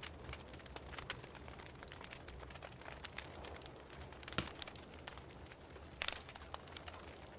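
Wood fire burning in a fireplace: a steady low hiss with scattered small crackles, and two sharper pops about four and a half and six seconds in.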